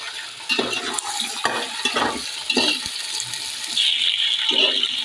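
Raw chicken pieces sizzling in hot oil and fried onions in a metal pot, the first stage of a chicken biryani. A slotted metal spoon scrapes and knocks against the pot several times as it stirs. The sizzle grows louder near the end.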